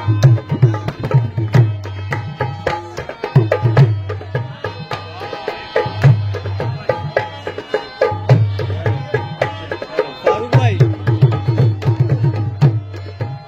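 Qawwali instrumental opening: a dholak plays fast rhythmic patterns of deep strokes, with a melody above it whose notes glide up and down.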